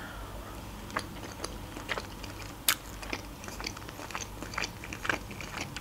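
Close-miked chewing of a bite of chicken breast in sticky sweet-and-sour sauce: scattered small wet mouth clicks and smacks, one sharper click near the middle.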